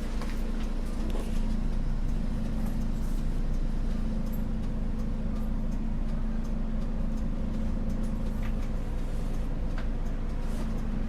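Diesel engine of a city bus idling with a steady low hum, heard inside the cabin. A few faint clicks sound over it.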